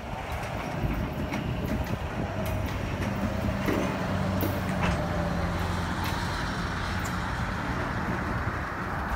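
Loaded open-top rock hopper cars of a freight train rolling past, a steady rumble of wheels on rail broken by scattered sharp clicks and clanks. A low steady hum joins underneath from about three seconds in.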